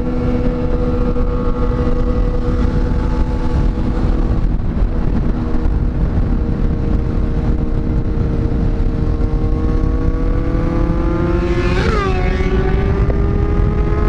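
Kawasaki inline-four sport motorcycle engine running at a steady cruise, its pitch easing slightly and then climbing slowly over the last few seconds as it accelerates. A brief sound sweeps down in pitch about twelve seconds in.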